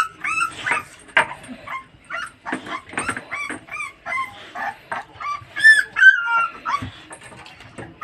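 Dog whimpering and yipping: a rapid string of short, high squeals that rise and fall, with the loudest around six seconds in.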